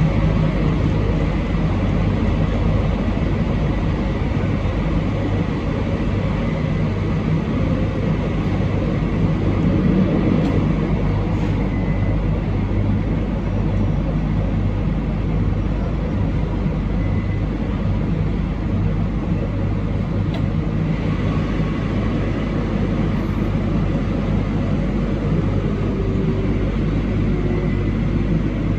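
Steady running noise heard from inside a moving passenger train: an even rumble of wheels on rail with a low drive hum, unbroken at constant speed.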